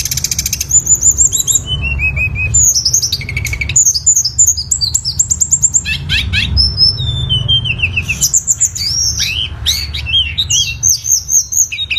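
Tledekan gunung songbird singing a continuous, varied song of fast trills, rapid repeated notes and down-slurred whistles, with hardly a pause.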